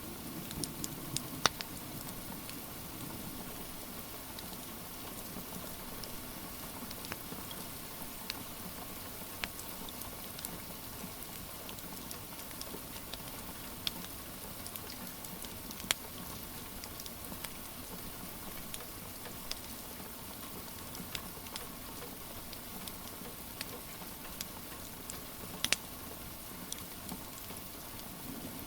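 Steady rain hiss with a wood fire crackling through it: scattered sharp pops, a few louder ones.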